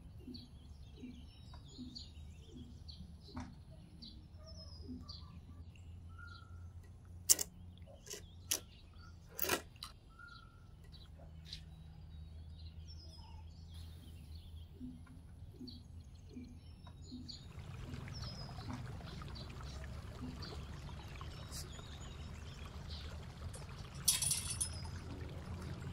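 Small birds chirping now and then over a low steady hum, with a few sharp knocks about a third of the way in. From about two-thirds in, a steady rush of running or pouring water sets in.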